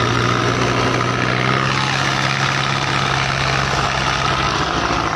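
Diesel engines of Belarus 510 tractors running steadily with a low hum, over a rough mechanical clatter; the strongest engine note drops away about four and a half seconds in.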